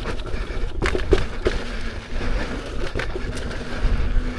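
Lynx electric unicycle riding over a rocky off-road trail: a steady low rumble broken by several sharp knocks and rattles as the wheel hits rocks.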